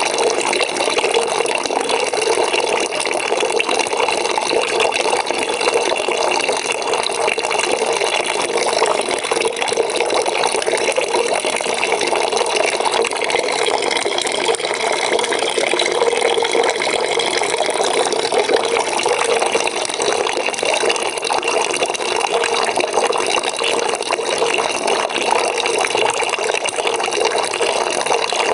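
Water from a tap pouring steadily into a bucket.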